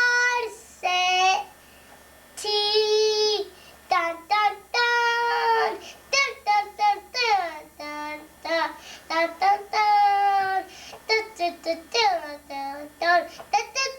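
A four-year-old child singing an Illinois school song alone, without accompaniment, in a high voice: long held notes early on, then quicker short syllables toward the end.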